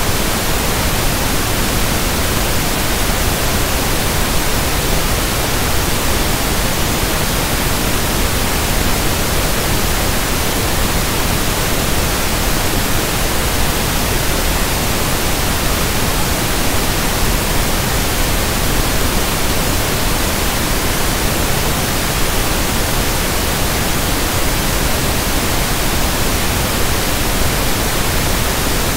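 Synthetic pink noise: a steady, even hiss at constant level, with no changes or events.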